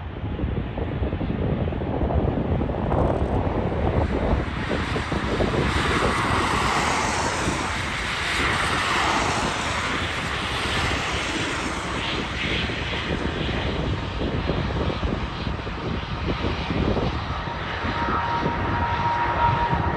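Jet airliner engines passing by, a loud steady rush that swells and then falls in pitch midway through. A steady high whine starts near the end.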